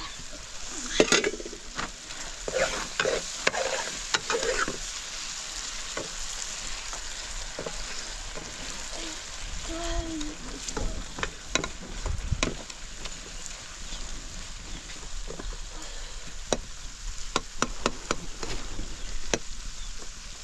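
Food frying in a pan: a steady sizzle with scattered clicks and scrapes of a utensil stirring it.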